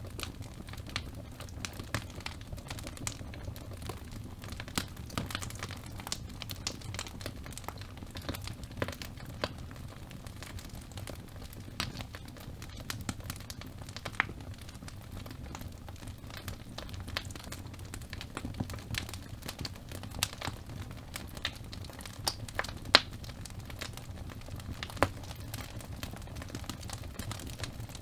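Wood fire burning in a fireplace, crackling with irregular pops and snaps over a low steady rumble of the flames. A sharper, louder pop comes about two thirds of the way through, and another a couple of seconds later.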